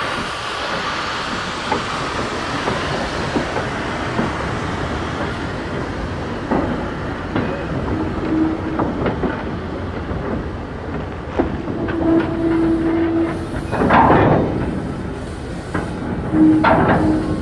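A train on a heritage railway running along the line, with a steady rumble and the clatter of wheels on track. Three short low tones sound partway through, and there are two louder bursts near the end.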